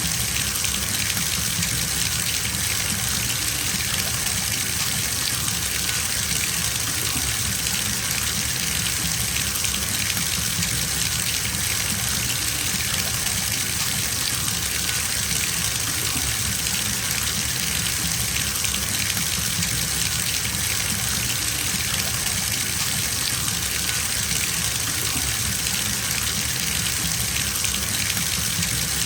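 Bathtub filling from the tap: a steady stream of water gushing into the tub, an even rushing hiss with no change.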